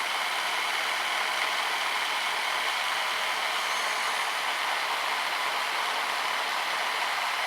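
Brushed 550 electric motor of an RC snowblower running the auger at a steady speed: an even, high whir with no change in pace.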